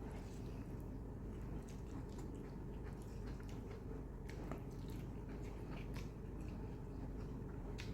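Close-up mouth sounds of someone eating mutton curry and curry-soaked roti: irregular wet chewing, smacking and squishing. A steady low hum runs underneath.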